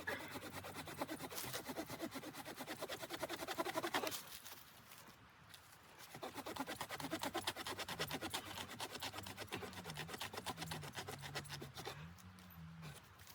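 Hand saw cutting wood in quick, even rasping strokes. It stops about four seconds in and starts again about two seconds later, then stops near the end.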